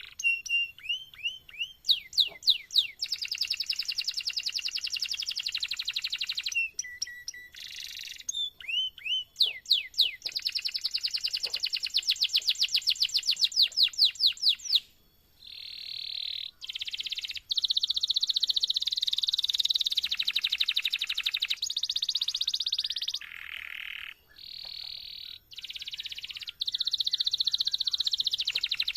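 Domestic canary singing a long, continuous song: rapid trills and rolls of repeated notes, the phrase changing every second or two, with a few brief breaks.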